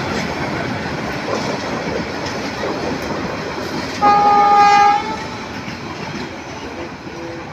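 Passenger train's carriages rolling along the rails, a steady rumble and clatter that slowly fades as the train moves away. About four seconds in, a loud horn blows for about a second.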